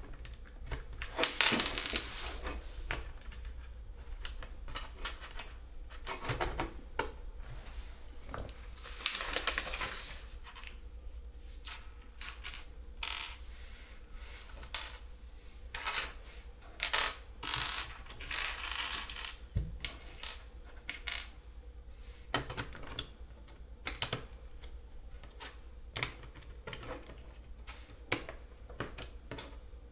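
LEGO plastic bricks being handled and clicked together, with many small irregular clicks and a few longer stretches of loose pieces rattling as they are sifted.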